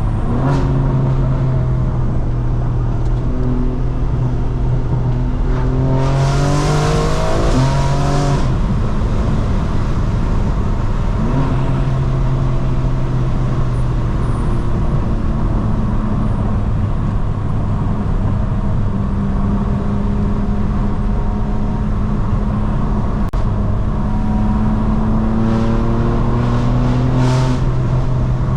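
Straight-piped BMW M4 Competition's twin-turbo inline-six, loud, pulling through the canyon with the revs rising about six seconds in and again near the end. At the top of the first pull there is a loud rasping blast lasting about two seconds.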